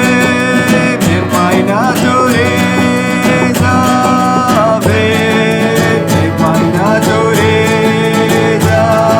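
Acoustic guitar strumming a repeating chord pattern, under a voice singing long held notes that slide from one pitch to the next.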